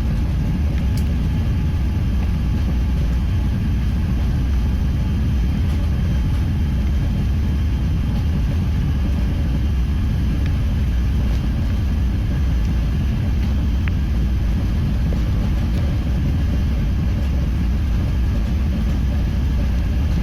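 Airbus A380 cabin noise during take-off or climb: a steady, loud, deep rumble of engines and airflow heard from inside the cabin, with a faint higher hiss.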